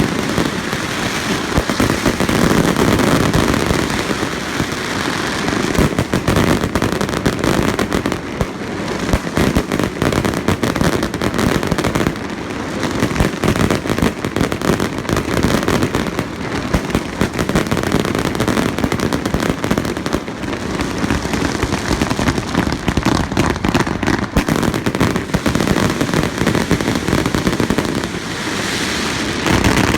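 Fireworks display: a dense, continuous run of shell bursts and crackling with no let-up.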